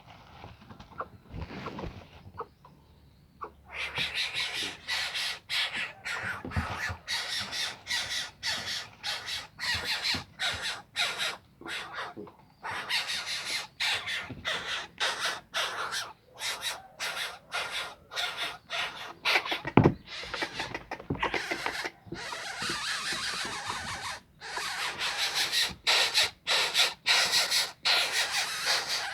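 A bird giving harsh, rasping calls in rapid series, several a second. They start about four seconds in and go on with brief pauses.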